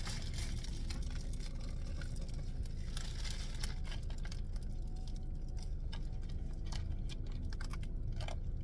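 Scattered small clicks and light rustling of takeout food containers and chopsticks being handled while eating, over a steady low hum.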